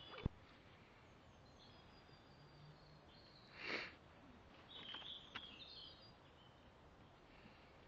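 Quiet outdoor background with faint, high bird chirps about five seconds in. A sharp click comes just after the start, and a short rustle, the loudest sound, comes about four seconds in.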